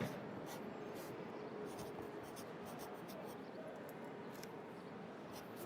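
Pencil writing on paper in short, irregular scratching strokes, over a steady background hum of city traffic.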